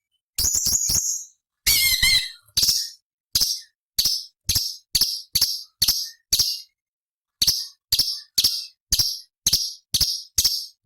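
Cucak cungkok (a small leafbird) calling. It gives a quick cluster of notes, then a short warbled phrase, then a long run of sharp, high, clipped notes at about two a second, with a brief pause partway through.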